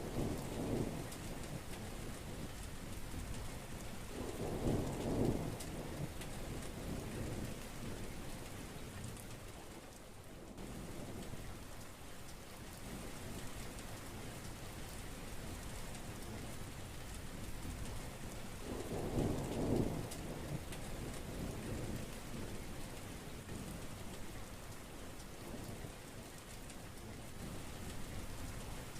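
Heavy rain pouring steadily, with rolls of thunder rumbling low: one at the start, one about five seconds in and a stronger one about twenty seconds in.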